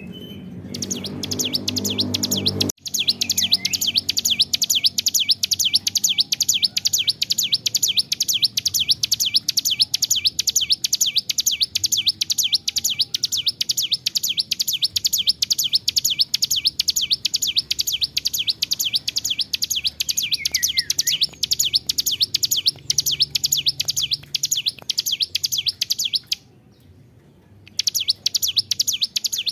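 Ciblek gunung (a prinia) singing a very long unbroken song of rapid, evenly repeated high chipping notes, pausing briefly near the end before starting again.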